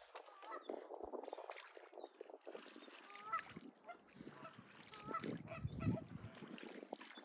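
Geese honking faintly, a few scattered calls, with water sloshing and splashing loudest about five to six seconds in.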